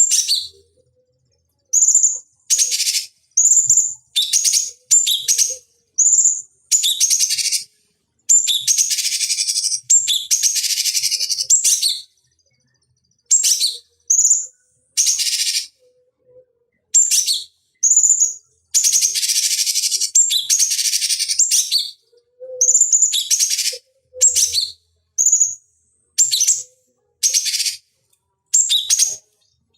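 Cucak cungkok calling in a string of short, high, chirping notes separated by silent gaps, with two longer, fuller song phrases of about three to four seconds each, one starting about eight seconds in and one just before twenty seconds.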